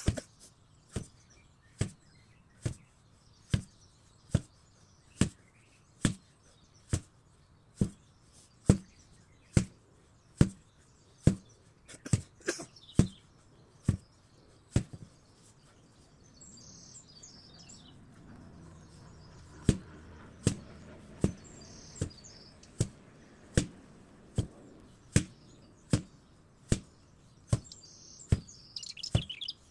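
An 8 kg sledgehammer striking again and again in a steady rhythm, a little more than one blow a second. The blows pause for about five seconds near the middle, then resume. Birds chirp faintly now and then.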